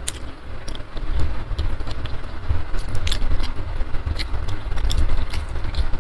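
Close-miked mouth noises from chewing and licking food off the fingers: scattered wet clicks and lip smacks over a steady low rumble.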